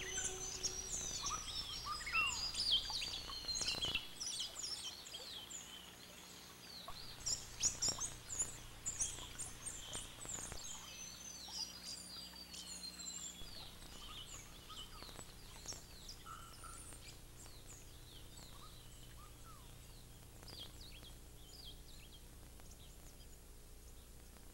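Many small birds chirping and whistling in quick, overlapping calls, some sliding down in pitch. Busiest in the first half, then thinning out and fading away toward the end.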